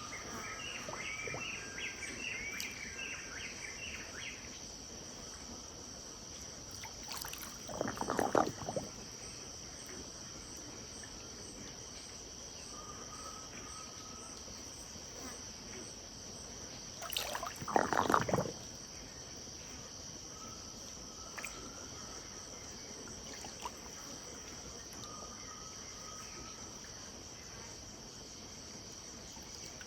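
A steady insect chorus at a riverbank, with a bird chirping rapidly for the first few seconds and soft, repeated two-note bird calls later on. Two short bursts of splashing, sloshing river water stand out about eight and eighteen seconds in.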